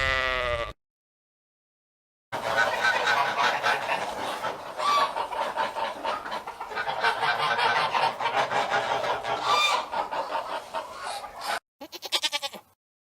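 A bleat trails off right at the start. After a short silence, a flock of poultry calls at once for about nine seconds, a busy mix of clucking and honking. Near the end, after another break, a goat gives a short bleat.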